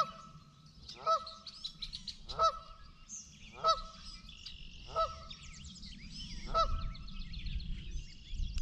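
A bird honking over and over, one short honk about every second and a quarter, with small songbirds chirping behind it.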